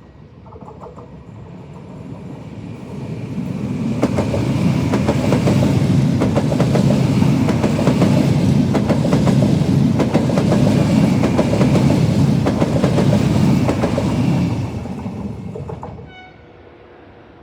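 A train passing through the station, its wheels clattering over the rail joints: it builds over the first few seconds, stays loud for about ten seconds, then dies away quickly near the end.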